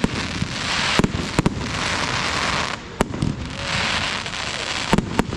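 Fireworks going off: a sharp bang every second or so from bursting shells, with stretches of dense crackling hiss between the bangs.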